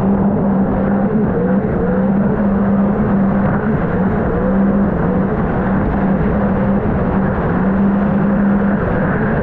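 A 2023 Sea-Doo RXP-X 300 jet ski's supercharged three-cylinder engine runs at a steady speed, its pitch wavering only slightly, over a continuous rush of wind and water.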